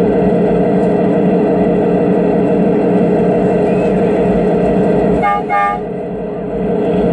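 QR 2100 class locomotive running with a steady diesel drone, sounding two short horn toots about five seconds in; the engine sound dips briefly after the toots.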